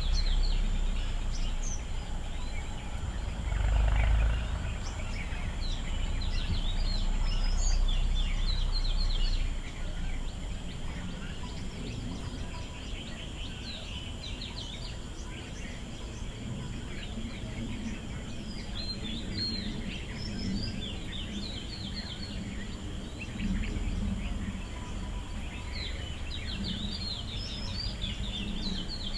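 Small birds chirping and twittering in quick clusters of short, high notes over an outdoor background with a faint steady high hum. A low rumble underlies the first third and comes back near the end.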